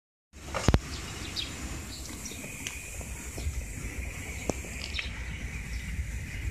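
Outdoor ambience: birds chirping now and then over a steady high-pitched drone and a low rumble, with a sharp click about half a second in.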